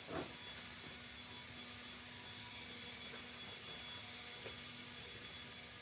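Steady background hiss with a faint constant hum, and a soft knock just after the start.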